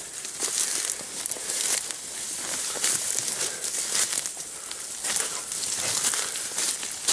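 Dry leaves and undergrowth rustling and crunching in an irregular run, as a person walks through forest brush.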